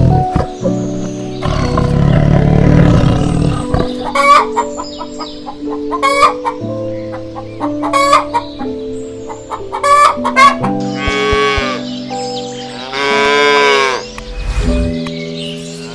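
Chickens clucking in short, sharp calls, then a rooster crowing twice in long calls in the second half, over background music.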